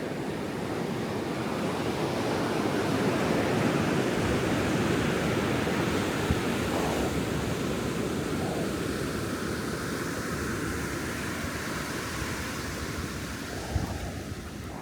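Ocean surf washing onto the beach, a steady rushing that swells for a few seconds and then slowly eases. A brief knock sounds near the end.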